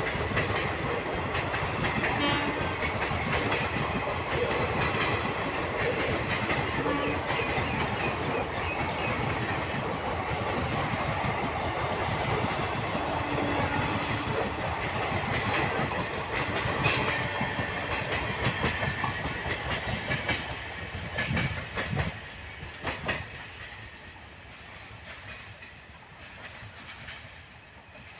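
Passenger train coaches rolling past, with wheels clattering on the rails. About three-quarters of the way through, the noise drops away as the last coach passes and the train recedes.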